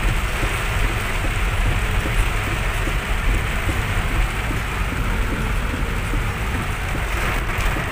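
Heavy rain falling hard on a car's windscreen and roof, heard from inside the moving car as a dense, steady patter of drops over a low rumble of the car on the wet road.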